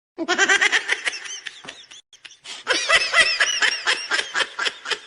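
High-pitched laughter in quick rapid pulses, in two bouts with a short break about two seconds in.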